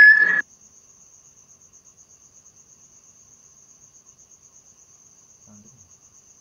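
Crickets chirping in a steady, rapid pulsing trill. A loud whistle-like tone cuts off sharply about half a second in, and a faint low thump comes near the end.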